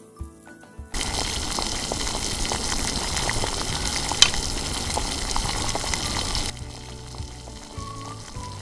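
Whole peeled potatoes cooking in a small steel pan over a flame: a dense crackling, bubbling sizzle that starts about a second in and cuts off abruptly about two-thirds of the way through.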